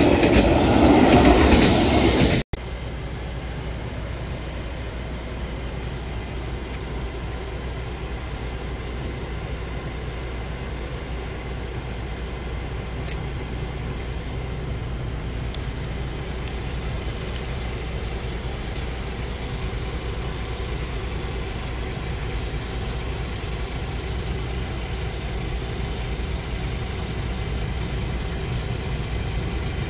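A Vietnam Railways passenger train passes close by, loud, and cuts off suddenly about two and a half seconds in. A steady low rumble of waiting motorbike engines follows, with a few faint clicks in the middle.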